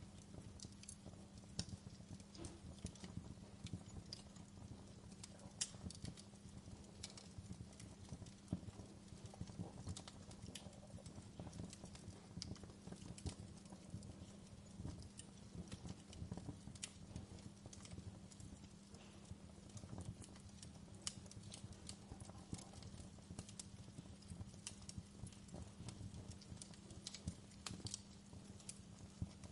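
Wood burning in a fireplace, crackling: irregular sharp pops and snaps over a low, steady rumble of the fire.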